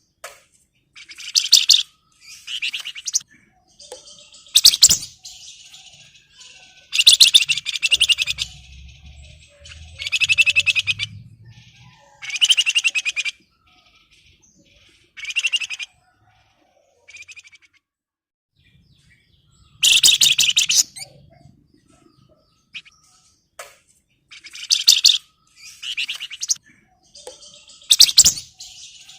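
Flamboyan (wergan Jawa, Javan fulvetta) singing bursts of rapid, dense, high chattering phrases, each a second or two long, with short pauses between. It is the loud, excited song of a male in breeding condition, calling out rivals.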